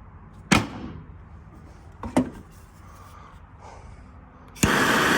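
Two sharp knocks about a second and a half apart, then a loud rush of noise that starts suddenly near the end.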